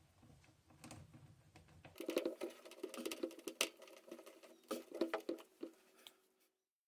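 Rapid small clicks and scrapes of metal parts being handled as a bolt is fitted into a washing machine during reassembly, cutting off suddenly near the end.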